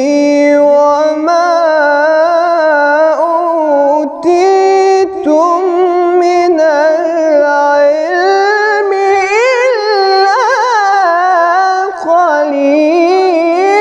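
A man's voice chanting Quran recitation in a slow melodic style, holding long notes with wavering, ornamented pitch, with a few short breaks for breath.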